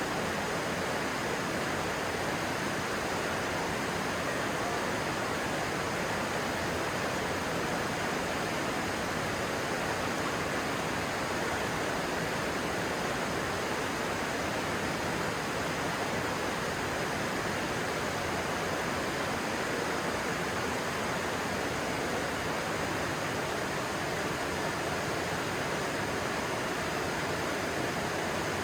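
Stream water rushing steadily, a constant even roar of flowing water with no breaks.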